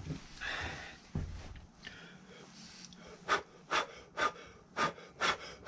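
Short puffs of blown air, about two a second, beginning about three seconds in: loose sand being blown out of a freshly opened sand mold.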